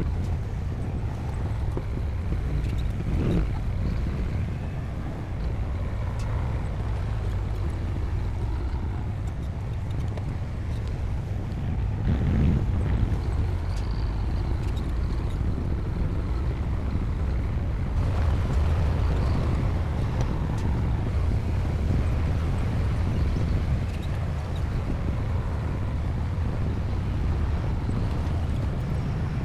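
Komatsu D60P bulldozer's diesel engine running steadily at work, with a constant low rumble.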